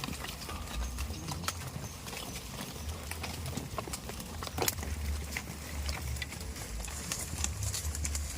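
Goats' hooves clicking irregularly on hard ground over a low steady rumble.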